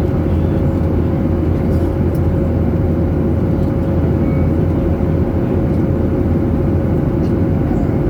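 Jet airliner cabin noise heard from inside: a loud, steady low drone of engines and airflow with a constant hum, unchanging throughout.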